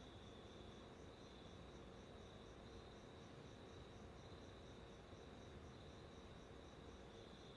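Faint insect chirping over a low hiss: a regular pulsing trill of about four pulses a second, with a second, steadier trill that swells and fades every second or so.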